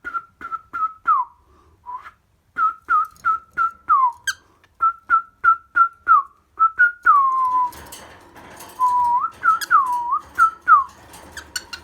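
Whistling: a quick run of short, clear notes at one pitch, about two to three a second, some of them sliding down at the end. From about seven seconds in the notes turn longer and fall in pitch, and a few sharp clicks come near the end.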